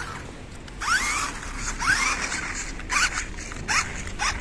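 Small electric RC toy car motor whining in short throttle bursts, each rising quickly in pitch, four or five times about a second apart.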